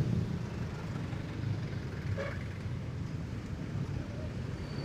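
Motorcycle engine running steadily under way, with road noise.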